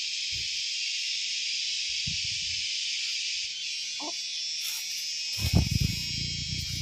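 A dense, steady chorus of insects, high-pitched and continuous. About five seconds in come a few dull low bumps.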